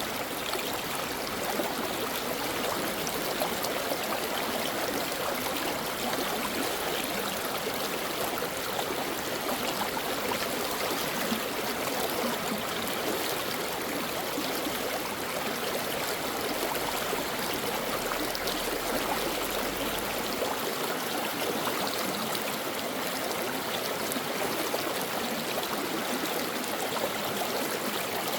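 A shallow stream running over rocks: a steady, even rush of flowing water with trickling and gurgling.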